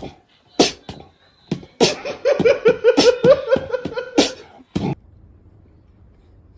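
A person laughing hard: a rapid run of ha-ha pulses, about five a second, between a few sharp loud bursts, cutting off about five seconds in.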